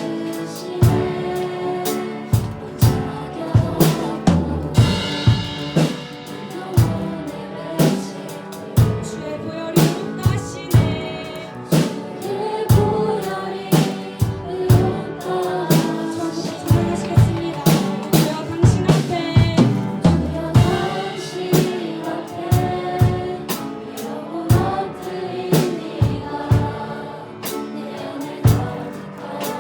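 Live worship band playing: drum kit with frequent bass drum, snare and rimshot hits over piano, with voices singing.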